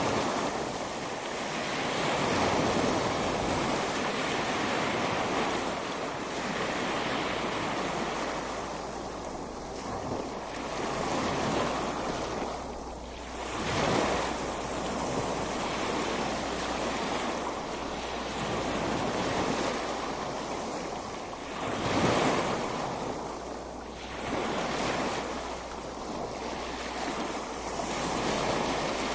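Ocean surf on a beach: waves continuously breaking and washing in, swelling and ebbing every few seconds, with a stronger wave breaking about halfway through and another about three-quarters of the way through.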